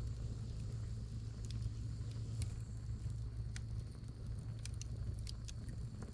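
Wood fire crackling in a fire brazier: sharp, irregular pops and snaps of burning firewood, over a steady low rumble.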